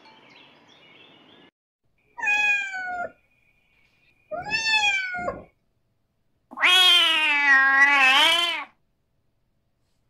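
Domestic cat meowing three times: two short meows that fall in pitch, then a longer, lower and louder drawn-out meow of about two seconds.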